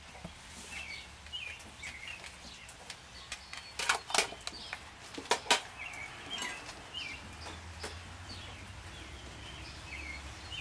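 Small birds chirping on and off, with a few sharp handling clicks about four and five and a half seconds in as tinder is readied by hand at a tin-can stove, over a steady low outdoor rumble.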